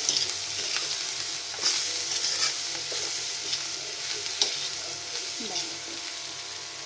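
A spatula stirring garlic, green chilli and ginger pickle through hot oil in a kadhai, with a steady sizzle and scattered clinks and scrapes of the spatula against the pan. The sizzle eases slightly toward the end.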